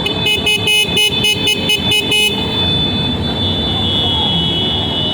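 A vehicle horn honked in a quick run of about a dozen short toots over about two seconds, over a steady high whine.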